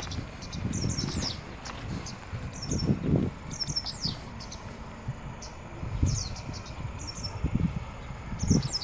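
Small birds giving short, high chirps, several in quick clusters, over uneven low rumbling.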